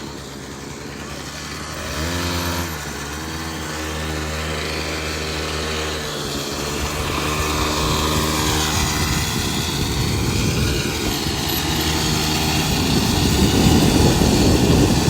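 Small dirt bike engine running, rising in pitch as it revs about two seconds in, then pulling steadily. A rushing noise builds toward the end.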